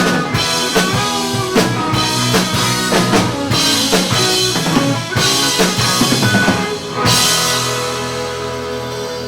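Rock band playing live, drum kit with bass and guitar, with steady drum hits. About seven seconds in the drums stop on a final crash and the last chord is left ringing and slowly fading, the close of the song.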